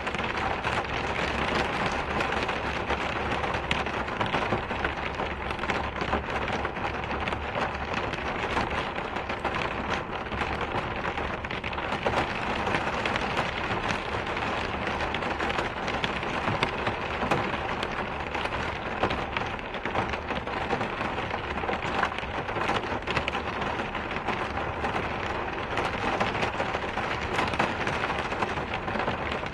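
Steady rain falling: a dense, even patter of drops that holds level throughout.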